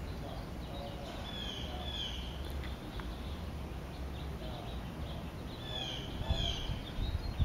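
A bird singing two short phrases of quick falling chirps, about a second and a half in and again about six seconds in, over a steady low rumble.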